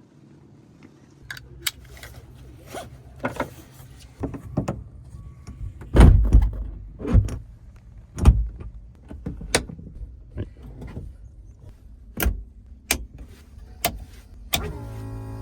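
Irregular sharp clicks and knocks in a gyroplane cockpit over a steady low electric hum. Near the end, the Magni M24+ gyroplane's Rotax 915 iS engine starts with a brief rising note and settles into a steady idle.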